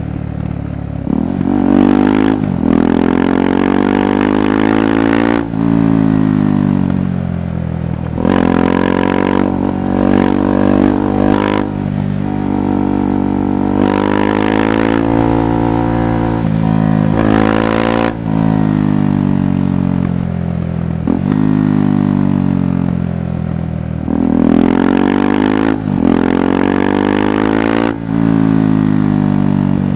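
KTM 390 Adventure's single-cylinder engine and exhaust under riding load, revving up and dropping in pitch again and again as it accelerates, shifts gear and rolls off through the bends. The pitch rises steadily several times, each rise cut short by a sudden drop at a gear change.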